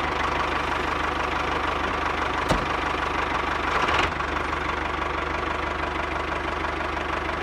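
Small motor of a miniature tractor running steadily, with a fine rapid ticking and a steady whine. There is a short click about two and a half seconds in.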